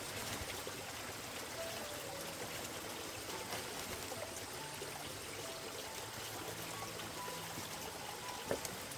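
Running water trickling steadily, with one sharp click near the end.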